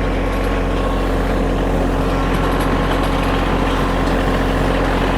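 Kioti compact tractor's diesel engine running steadily under load while pulling a rock drag weighted with railroad ties across a gravel driveway.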